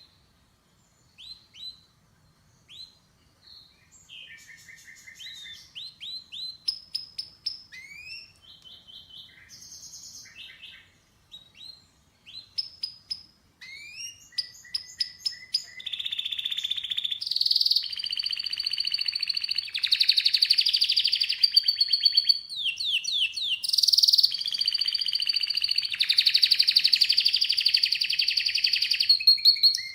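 Domestic canary singing. Separate chirps and short quick trills give way about halfway through to loud, almost unbroken rolling trills.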